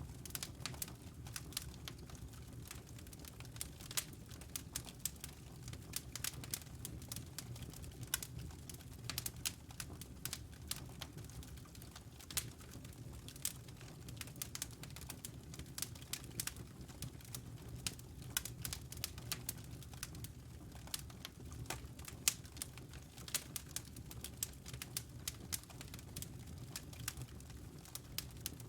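Wood fire crackling in a fireplace: frequent irregular sharp pops and snaps over a steady low rumble of the burning flames.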